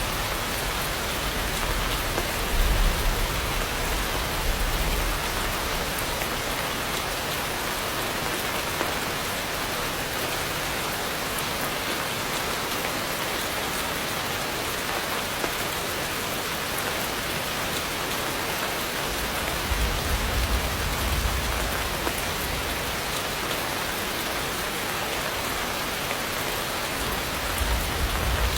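Heavy rain falling steadily, a dense even hiss of drops on surfaces. Low rumbles swell up briefly a few times: about two seconds in, past the middle, and near the end.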